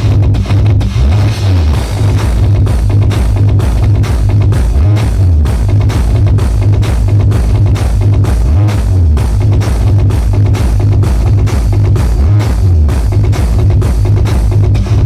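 Loud music with very heavy bass and a steady drum beat of about two and a half beats a second, played at high volume through a big sound-system rig during a sound check.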